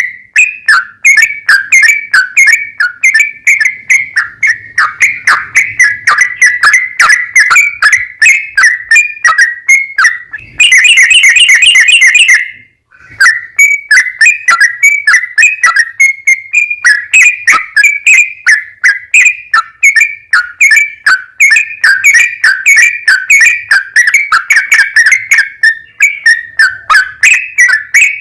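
Yellow-vented bulbul (trucukan) song played loud: a long, unbroken run of rapid, chattering whistled notes, several a second, the 'ropel panjang' lure song used to make other bulbuls answer. A little before halfway the notes crowd into a harsher, denser burst for about two seconds, then break off for a moment before the run resumes.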